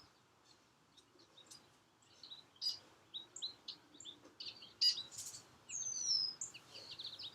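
Wild songbirds chirping: a string of short, high chirps and notes that grows busier about two seconds in, with one longer downward-sliding whistle near the end.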